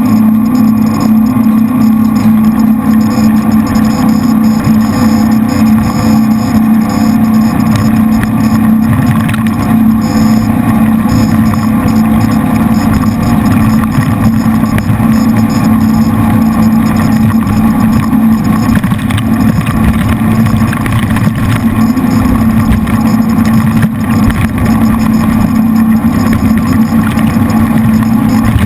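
Jet boat's three V8 engines running steadily under way, a loud continuous drone that holds one pitch throughout.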